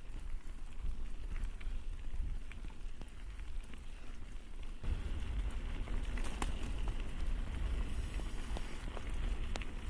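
Mountain bike rolling downhill on a rough dirt and gravel trail: tyres crunching, with scattered clicks and rattles from the bike, under wind rumble on the microphone that grows stronger about halfway through as the bike speeds up.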